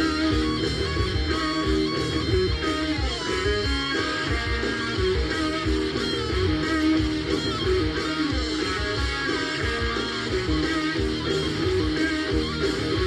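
Stoner-metal rock song with distorted electric guitar, bass and drums playing steadily.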